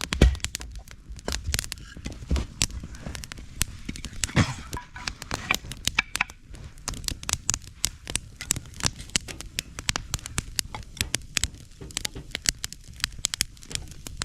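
Wood fire crackling and popping, with rapid irregular snaps and a louder pop right at the start and another about four seconds in.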